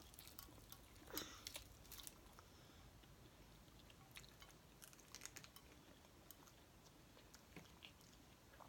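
Faint eating sounds: chewing and small wet mouth clicks and smacks from people eating fried chicken wings, scattered and irregular, a little louder about a second in.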